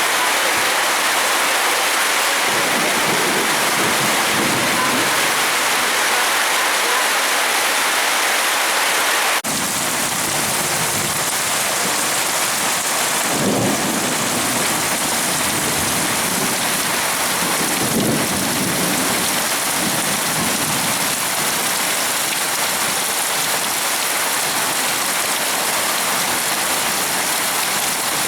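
Heavy rain pouring steadily in a thunderstorm, with low rumbles of thunder about halfway through and again a few seconds later.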